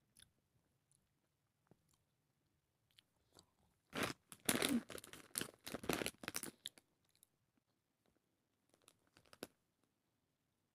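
A person chewing shelled sunflower seed kernels close to the microphone: a short run of crisp crunches starting about four seconds in and lasting a couple of seconds, followed by a few faint clicks.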